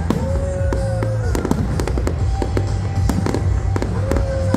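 Aerial fireworks shells bursting in quick succession, with sharp bangs and crackling over a steady low rumble. Music plays underneath, with a held tone about a second long near the start and again near the end.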